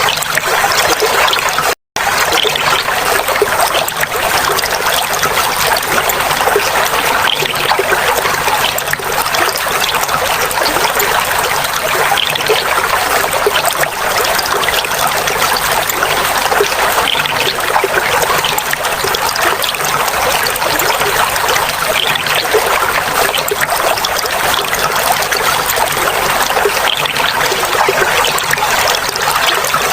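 Clear running water babbling and trickling steadily. It cuts out completely for an instant about two seconds in.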